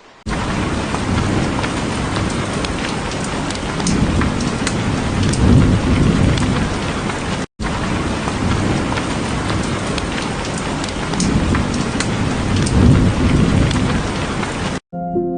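Heavy rain falling steadily, with low thunder rumbling up twice. The sound cuts out for a moment about halfway through and picks up again unchanged.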